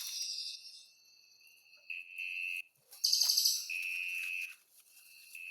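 A wild cililin songbird singing: high, steady whistled notes held for about half a second to a second at a time, with a louder rapid trill about three seconds in.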